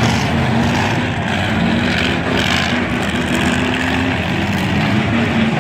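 Grain truck engines running during a race: a steady, loud engine drone whose pitch shifts a little as the trucks go around.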